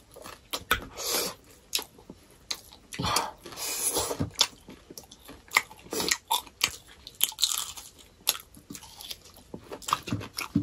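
Two people eating by hand and chewing with their mouths close to the microphone: irregular crisp crunches and bites mixed with wet chewing and lip sounds.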